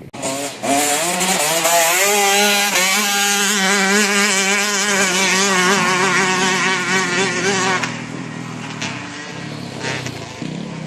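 Motocross bike engine revving hard, climbing in pitch over the first couple of seconds, then held at high revs with a quick wavering as the throttle works, before falling off and fading about eight seconds in.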